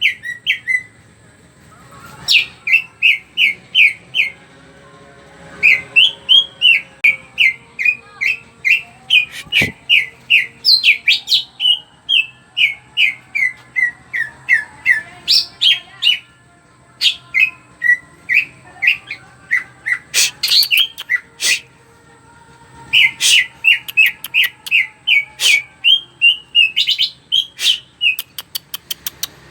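Cucak ijo (green leafbird) singing at full output: long strings of quick, sharp notes repeated in rapid runs, broken by brief pauses, with a few sharp clicking notes mixed in.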